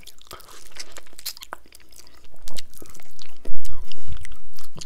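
Close-miked chewing and biting, with many small sharp clicks and crunches. The loudest, heaviest chewing comes about three and a half seconds in.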